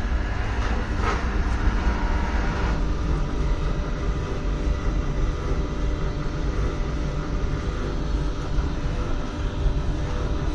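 Wood pellet burner running: a steady, rumbling noise with a faint hum over it.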